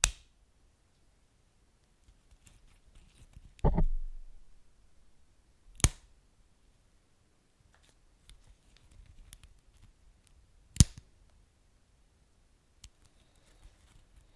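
Wood fire crackling, with sharp single pops at the very start, about six seconds in and near eleven seconds. A louder, longer burst comes about four seconds in, and faint small crackles run between.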